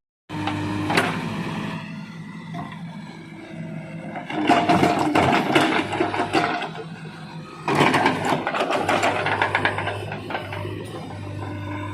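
JCB 3DX backhoe loader's diesel engine running steadily. Two stretches of rapid clattering and scraping come about four and eight seconds in, each lasting a couple of seconds, as the machine works.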